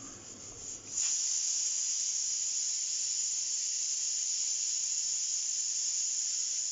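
A steady hiss that starts abruptly about a second in and keeps on evenly.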